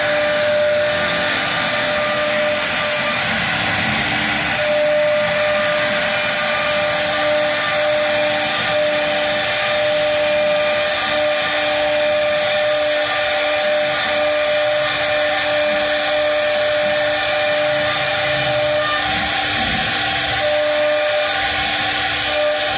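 CNC router spindle running and its bit cutting a carved pattern into a door panel: a steady hiss with a constant whine, one tone of which drops out briefly a few times.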